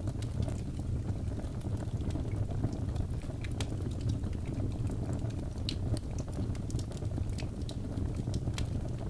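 Wood fire in a fireplace crackling, with scattered sharp pops at irregular intervals over a steady low rumble of the flames.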